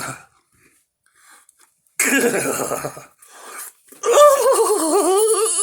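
A man's throat sounds: a sharp cough about two seconds in, then a long groan that wavers in pitch.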